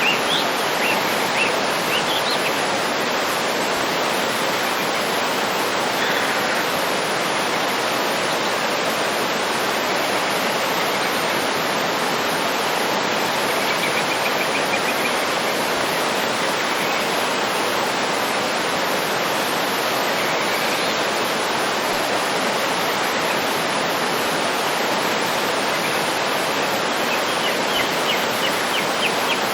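Waterfall running steadily as an even wash of falling water. Over it come a few faint bird chirps near the start and the end, and a short trill about halfway through.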